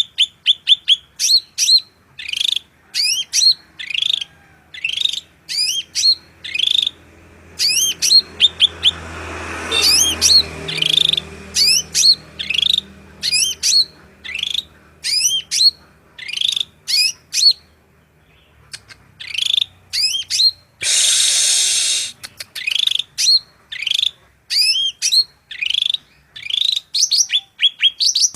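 A songbird singing a long run of short, high notes that sweep downward, about one to two a second, broken by a harsh hissing burst of about a second some three-quarters of the way through. A faint low rumble swells and fades about a third of the way in.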